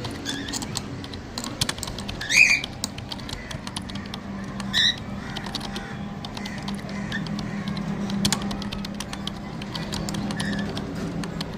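A small bird gives two short, warbling chirps, one about two seconds in and one near five seconds, among many light clicks and taps, over a low steady hum.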